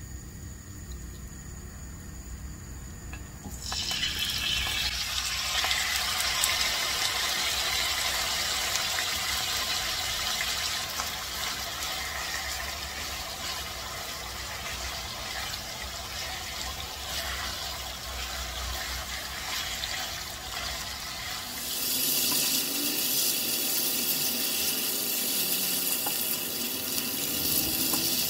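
Cubed raw chicken breast frying in hot oil in a nonstick wok: a steady sizzle that starts suddenly about three and a half seconds in, as the pieces hit the oil, and grows brighter and louder near the end.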